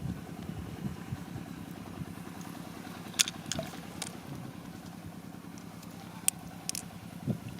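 A steady low hum like a running motor, with a few sharp clicks or taps in the middle of it.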